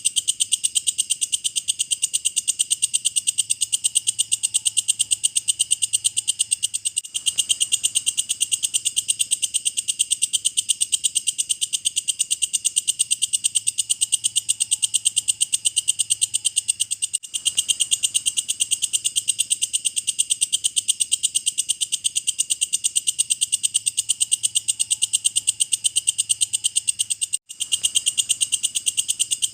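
Walang kecek insect calling in a continuous, very fast, high-pitched pulsing trill. The trill breaks off for a moment about every ten seconds.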